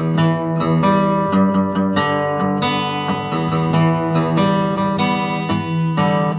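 Acoustic guitar strumming and picking chords, with a fresh attack every fraction of a second.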